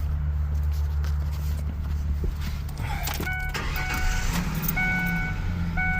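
Steady low hum, then about halfway in a Ford Ranger's dashboard warning chime starts, a short tone repeating about once a second, just after a brief rattle.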